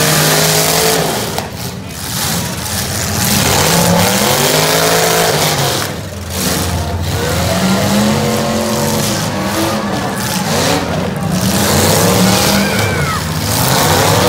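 Demolition derby cars' engines revving over and over, their pitch swinging up and back down as they accelerate and ease off, several at once.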